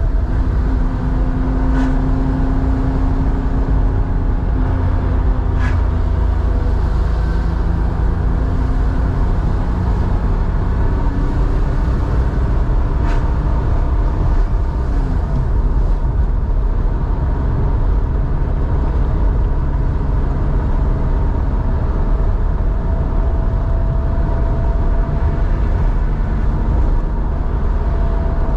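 Air-cooled flat-six engine of a 1987 Porsche 911, enlarged to 3.4 litres and breathing through a two-in, one-out muffler, running at a steady cruise. It makes a loud, even drone whose pitch shifts a little, with a few faint clicks.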